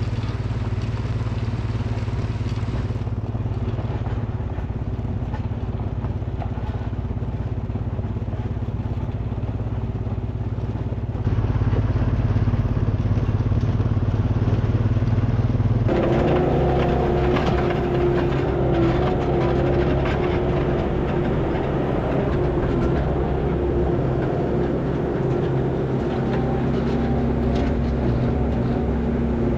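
A vehicle engine running steadily, its tone changing abruptly about 3, 11 and 16 seconds in and louder from about 11 seconds on.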